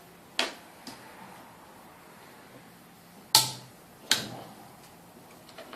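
A few sharp knocks: one shortly after the start, then two loud ones about three and a half and four seconds in, with fainter taps between.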